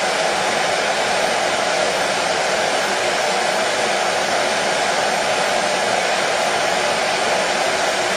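Hair dryer running steadily, a constant even whoosh of blown air and motor with its strongest part in the middle-low range, played as white noise for a baby's sleep.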